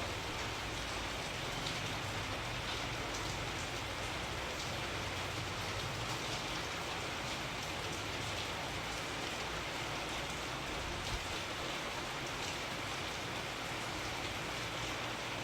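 Steady rain falling, a continuous hiss with scattered drops tapping on a surface.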